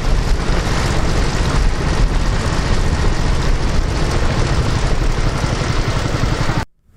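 Boat engine running steadily under loud wind noise on the microphone, with a heavy low rumble.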